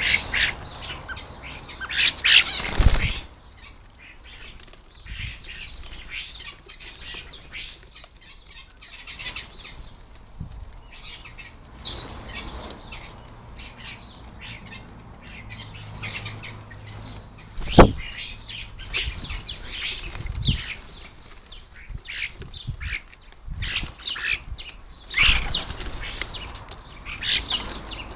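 A flock of common starlings chattering, squawking and whistling, with bursts of wingbeats as birds flap in and out. Single sharp knocks stand out, the loudest about 18 seconds in.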